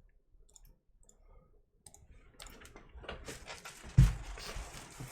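A trading-card box being opened and handled: faint clicks, then rustling and crinkling of its packaging from about two and a half seconds in. A dull thump about four seconds in is the loudest sound.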